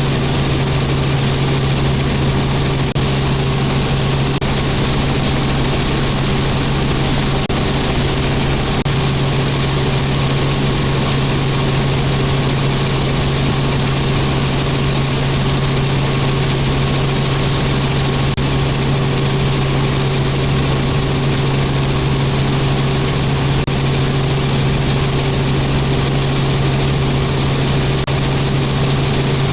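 Robinson R44 helicopter in steady cruise flight: its piston engine and rotors make a constant drone, with a strong low hum and a few steady higher tones over a wide rushing hiss.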